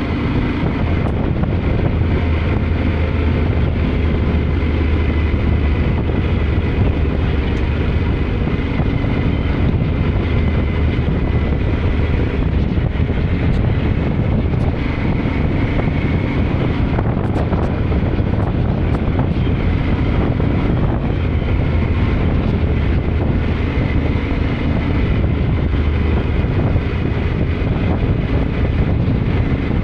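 Yamaha Ténéré 700 parallel-twin engine running at a steady pace while riding, mixed with heavy wind noise on the microphone.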